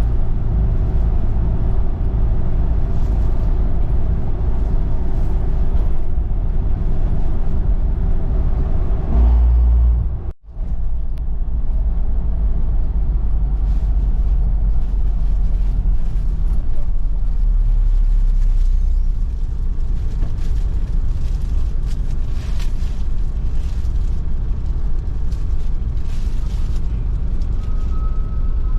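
Steady rumble of a road vehicle on the move, heard from on board: engine and road noise with strong low buffeting. The sound cuts out sharply for a moment about ten seconds in, then the rumble carries on.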